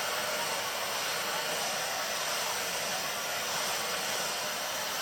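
Vacuum cleaner running steadily, an even rush of air with no change in pitch.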